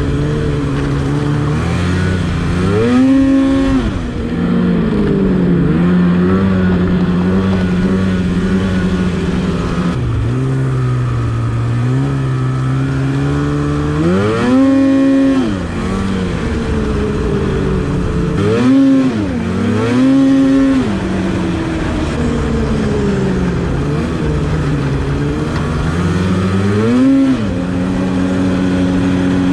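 Snowmobile engine running under way at a steady pitch, with the throttle opened about five times in quick revs that rise and fall.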